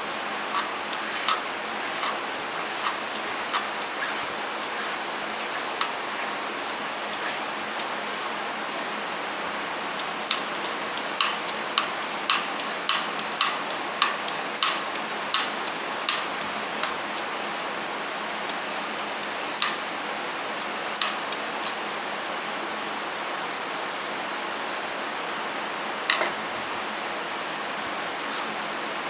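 Knife cutting carrot on a cutting board: sharp clicks, with a quick irregular run of chops about ten seconds in and scattered single chops elsewhere, over a steady background hiss.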